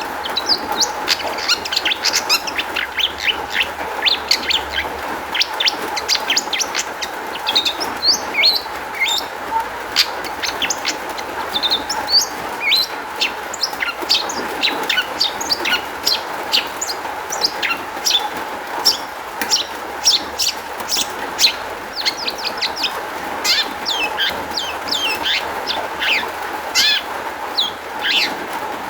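Long-tailed shrike (cendet) singing a rapid, unbroken stream of short sharp chirps and quick whistled sweeps, its song packed with varied mimicked notes from other birds.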